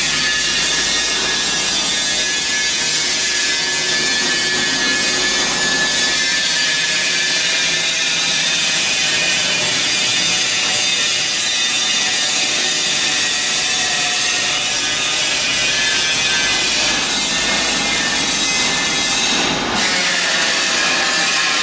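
A power tool running steadily with a constant whine and a harsh rasp, briefly dipping near the end.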